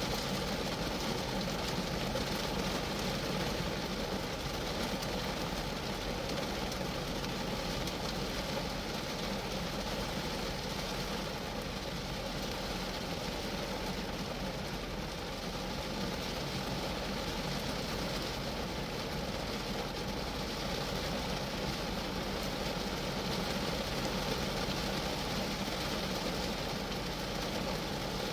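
Steady rain falling on a Geo Metro, a dense even patter of drops on the car's body.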